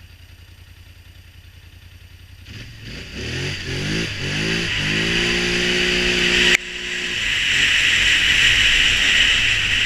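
A Polaris Sportsman Touring 1000 ATV's twin-cylinder engine idles with a low pulse, then revs up as the quad pulls away, its pitch rising in several glides. About two-thirds through the sound breaks off suddenly and the engine carries on running steadily under a strong hiss.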